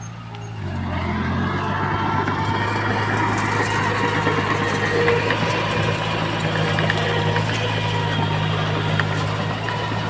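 Diesel engine of heavy construction equipment running steadily, growing louder about half a second in, with faint metallic clicks over it.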